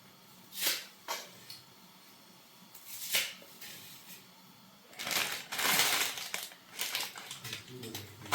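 Three sharp clicks or knocks, then, about five seconds in, a louder stretch of rustling and clattering handling noise.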